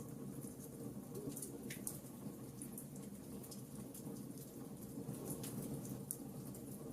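Wood fire crackling in a fireplace: a steady low rumble of burning with scattered sharp pops and crackles.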